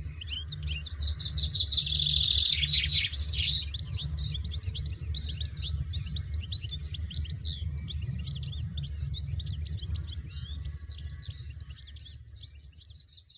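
European goldfinches twittering and calling: a dense, loud burst of rapid buzzy chatter in the first few seconds, then a steady stream of quick high twittering notes.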